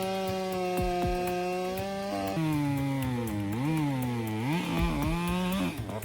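Two-stroke chainsaw running at full throttle, then dropping in pitch and wavering about two seconds in as the chain bites into the wood under load; the saw stops near the end.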